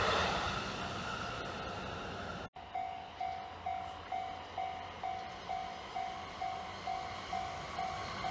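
A Takasaki Line train running past, fading away over the first two and a half seconds. After a short break, a level-crossing warning bell starts ringing at a little over two dings a second.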